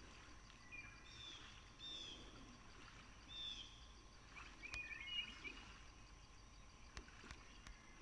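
Faint birdsong over quiet outdoor ambience: a bird gives short, downward-slurred chirps several times, then a quick cluster of chirps about halfway through. A few faint, sharp clicks are heard later.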